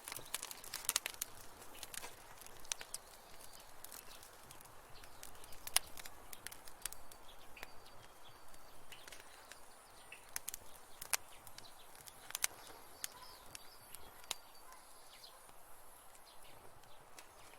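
Wood fire in a fireplace crackling, with irregular sharp pops over a soft hiss.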